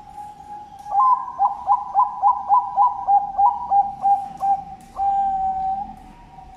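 Zebra dove (Bangkok-strain perkutut) cooing. A soft opening coo runs into a fast run of about a dozen short, stuttering notes, three or four a second. The phrase ends about five seconds in on one long held note.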